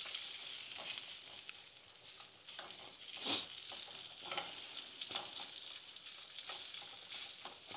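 Thinly sliced guanciale sizzling steadily in a frying pan as its fat renders out and bubbles, with a few light clicks as the pieces are moved around the pan.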